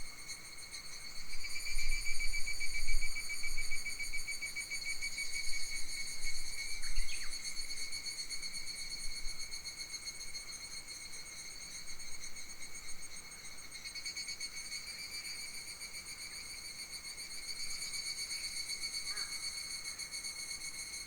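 Steady chorus of summer insects trilling, a high, finely pulsing buzz that never lets up. A couple of short bird chirps come in partway through and near the end, and early gusts of wind rumble on the microphone.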